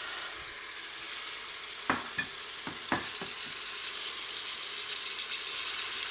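Onion and spice masala frying in ghee in a pressure cooker, sizzling steadily. There are a few sharp clatters about two to three seconds in.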